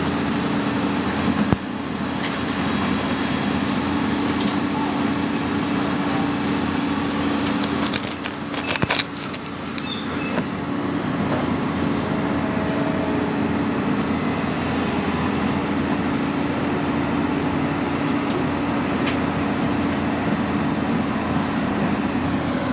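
Excavator's diesel engine running steadily with a low drone, with a single click early and a short burst of clattering about eight seconds in.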